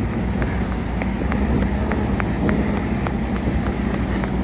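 Coach engine running steadily, a low rumble with a constant hum, with a light regular ticking about three times a second.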